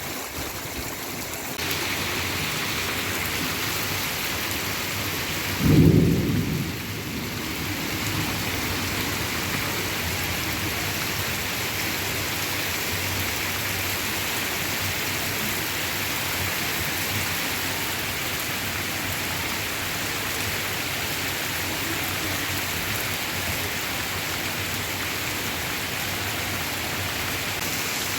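Heavy rain pouring steadily, with a loud low clap of thunder about six seconds in.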